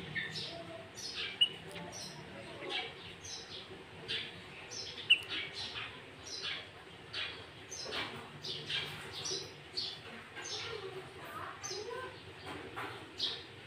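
Sooty-headed bulbul (kutilang) singing a fast, busy song filled with greater green leafbird (cucak ijo) phrases: a run of short, sharp, high notes that sweep downward, one to two a second, with two louder, piercing notes about a second and a half in and about five seconds in.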